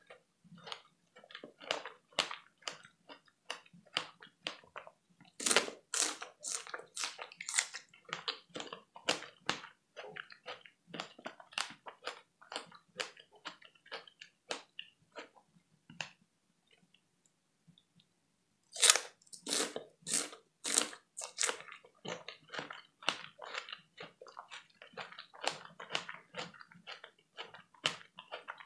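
Close-miked chewing of fresh strawberries: rapid wet, crisp clicks and squishes in the mouth. The chewing stops for about two seconds past the middle, then starts again with a louder burst.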